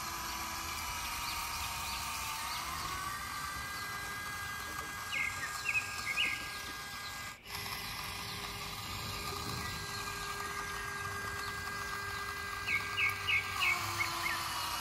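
Birds chirping in short groups of quick notes, about five seconds in and again near the end, over steady background noise with a few faint held tones.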